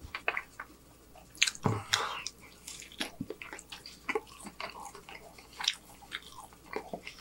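Close-miked chewing of a mouthful of burger: irregular wet mouth clicks and smacks, loudest about one and a half to two seconds in.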